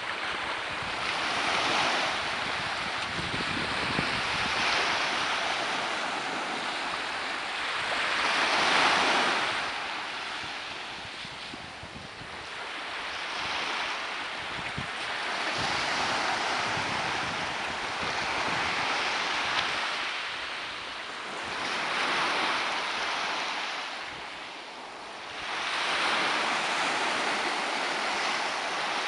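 Sea waves breaking on a shore, a hissing wash of surf that swells and ebbs every few seconds, loudest about eight seconds in.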